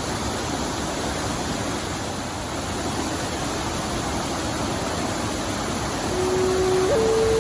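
Waterfall rushing in a steady, even roar of falling water. About six seconds in, a held flute-like music note comes in over it and steps up to a higher note near the end.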